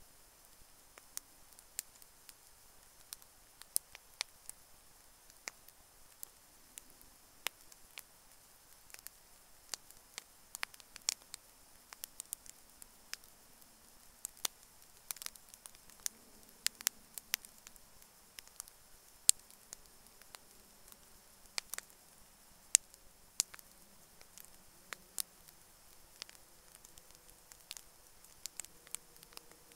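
Wood campfire crackling: irregular sharp snaps and pops, a few louder than the rest, over a faint steady hiss.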